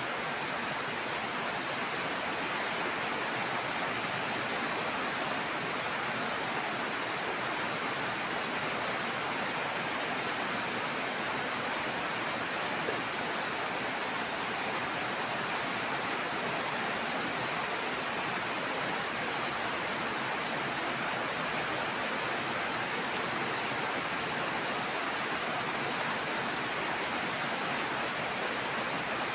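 Heavy rain falling, a steady, even hiss without a break.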